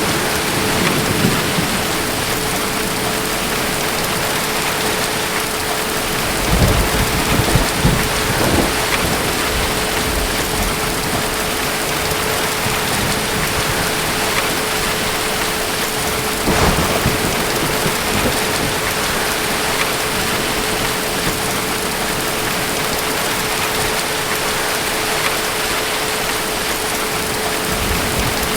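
Steady heavy rain hissing, with low rumbles of distant thunder swelling twice, about a quarter of the way in and again just past halfway.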